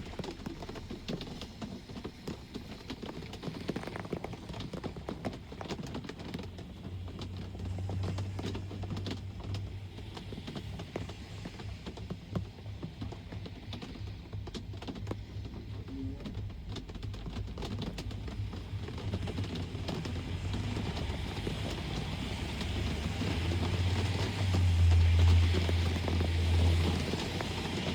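Rain dripping and pattering in many small irregular ticks, with the low drone of passing road traffic that builds and is loudest about three-quarters of the way in. A hiss rises near the end.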